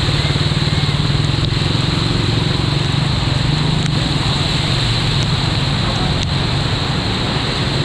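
A steady engine drone with a fine, even pulse, over a constant rushing noise.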